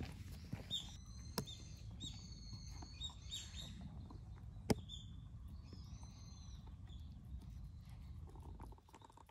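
Small birds chirping in short, repeated high calls, with two sharp clicks and a low background rumble that drops away near the end.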